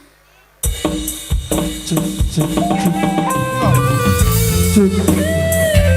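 A live dangdut band starts a song after a brief pause, coming in suddenly about half a second in with drums and bass under a melody line of held, sliding notes.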